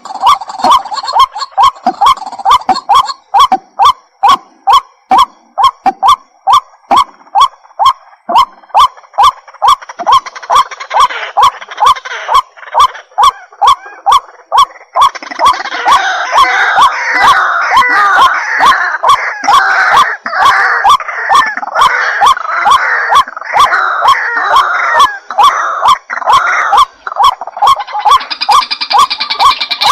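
White-breasted waterhen calling: a fast, even run of loud repeated croaking calls, about three a second. From about halfway the calls turn denser and harsher and overlap one another.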